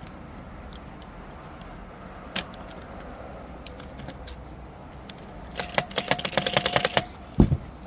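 Rapid run of clicks from the starter's drive clutch being worked, ending in a single heavy thump near the end. The clutch is being checked and is working.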